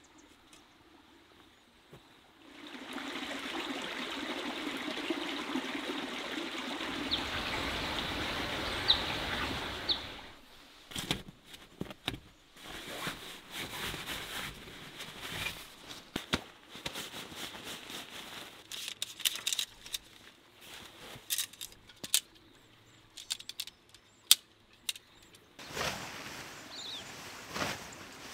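Running water sets in about two seconds in and goes steadily for some seven seconds, then stops. After it come scattered small knocks, clicks and rustles.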